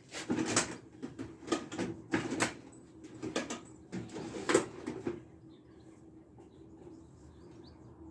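Irregular taps and knocks on metal, about a dozen in the first five seconds, then they stop: a retaining clip being tapped onto a lawn mower's front axle.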